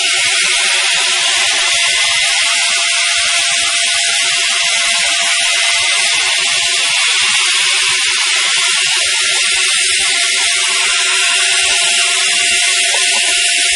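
Electric angle grinder fitted with a mini chainsaw bar and chain, running steadily at full speed with a loud, high whine.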